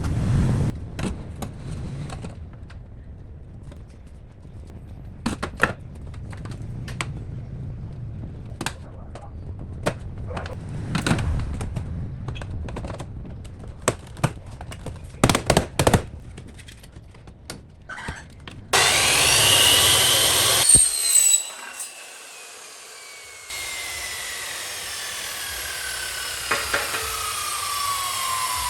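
Woodworking in a boat build: scattered knocks and taps for the first two-thirds, then a power tool running loudly, its pitch falling slowly.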